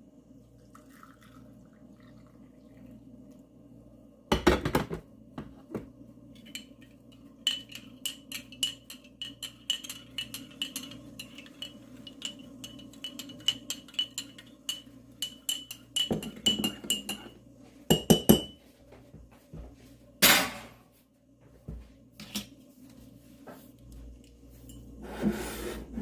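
Dishes, glass and cutlery clinking, with a few sharp knocks and a stretch of about ten seconds of rapid light clinks that ring at one high pitch.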